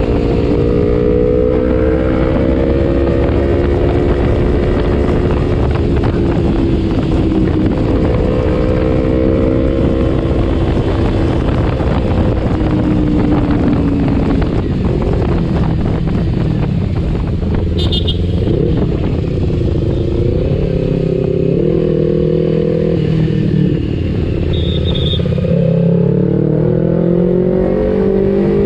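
Kawasaki Ninja 250 FI parallel-twin engine through an aftermarket R9 H2 exhaust, ridden on the road. Its note rises and falls with throttle and gear changes, and it climbs in pitch again near the end as the bike accelerates.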